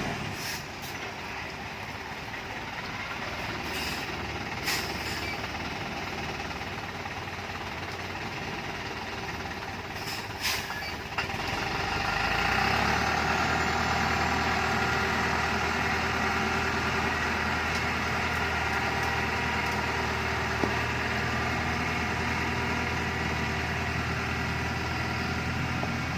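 Dongfeng truck's diesel engine running steadily, its low note filling out and getting louder about halfway through as it takes up load. A few short sharp hisses or clicks come in the first half.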